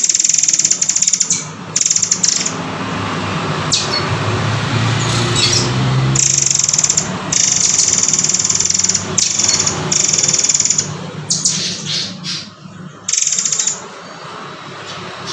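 Murai air (murai kopi) bird singing in loud, rapid, high rattling bursts about a second long, repeated with short pauses between them.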